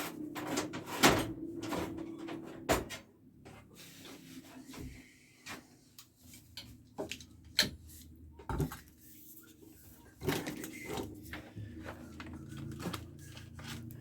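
Irregular knocks, clicks and clatters of objects being handled and set down, with a faint low hum underneath at times.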